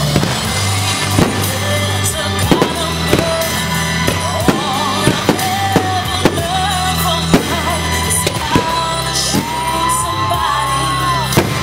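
Aerial fireworks going off: about a dozen sharp bangs at uneven intervals. Loud music with singing plays underneath throughout.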